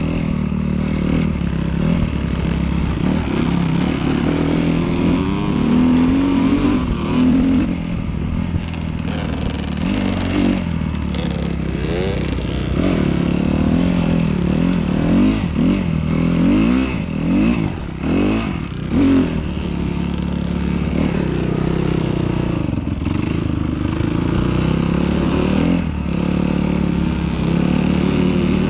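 Enduro dirt bike engine running under load as it is ridden, its revs rising and falling with the throttle, in quick swings most often between about ten and twenty seconds in.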